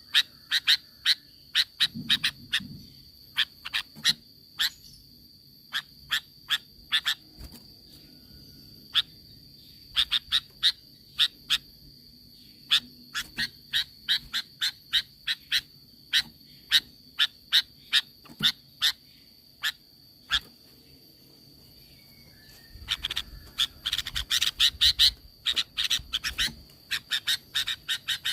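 Sooty-headed bulbul calling: short, sharp notes, one or a few at a time with pauses, crowding into a fast run about two-thirds of the way through. A faint steady high tone runs beneath.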